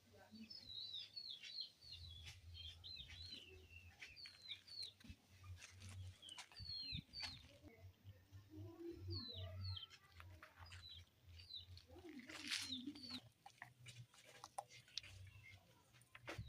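Faint birdsong: many short, quick chirps, several dropping in pitch, repeated throughout over a low hum.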